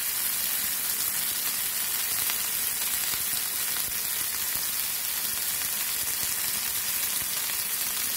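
Semolina-coated prawns shallow-frying in hot oil in a nonstick pan, giving a steady, even sizzle.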